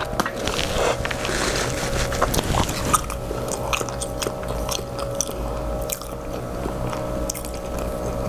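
Close-miked chewing and biting sounds of someone eating, with small wet clicks. Under them runs a steady machine drone from outside that she could not identify, first calling it a leaf blower and then saying it is not a lawnmower.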